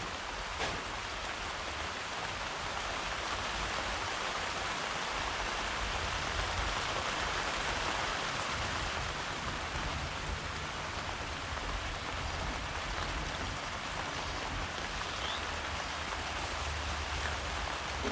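Steady rainfall, an even hiss of falling rain with a few faint drop ticks and a low rumble underneath.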